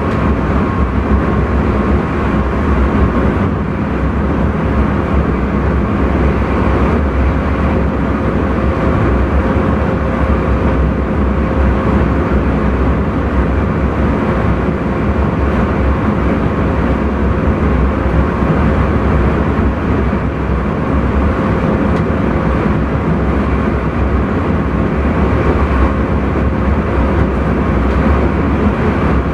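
Intercity train running steadily at speed, heard from inside the driver's cab: a continuous low rumble of the wheels on the rails with a steady, even hum over it.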